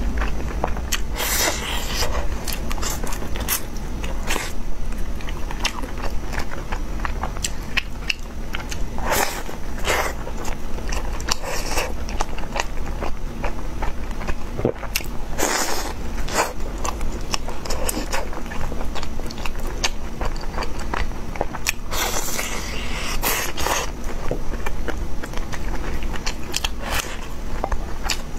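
A person eating close to the microphone: steady biting and chewing with many small wet mouth clicks, and a few louder crunchy bites now and then.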